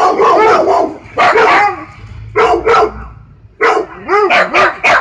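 A dog barking loudly in bursts: a flurry at first, then two pairs of barks, then a quick run of barks near the end.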